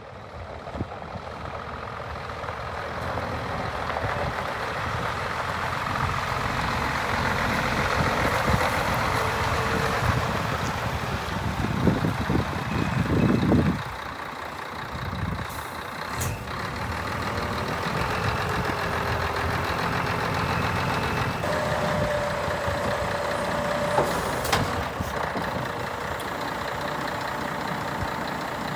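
Scania R124 420 truck's straight-six diesel engine running, growing louder over the first several seconds, with a stronger burst about twelve seconds in and a couple of sharp clicks later on.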